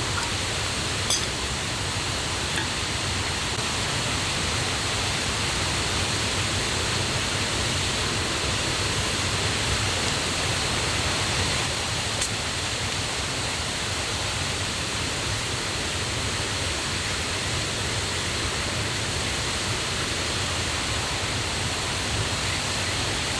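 Steady rush of a forest river and waterfall running high after the previous day's rain, loud and constant, with a couple of faint clicks over it.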